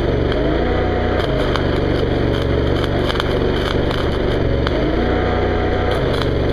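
Engine-driven welder on a service truck speeding up twice from idle to welding speed, holding for about a second each time and dropping back, while the welding arc crackles laying hard-facing on a grader cutting edge. The welder is being worked hard enough to raise the question of its duty cycle.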